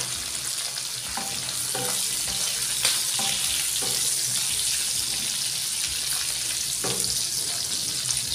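Liver pieces and sliced onions sizzling in oil in an iron kadai, making a steady hiss, while a wooden spatula stirs them and knocks against the pan now and then.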